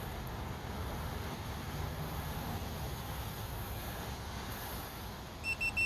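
Steady low rumble, then a fusion splicer beeps three times in quick succession near the end, at the heat-shrink stage of the splice.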